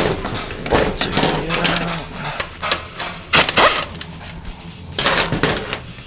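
Metal transmission parts of a Ford 5R110W automatic clanking, knocking and scraping as they are handled and pulled apart during teardown, with irregular sharp knocks and two longer rattling scrapes near the middle and end.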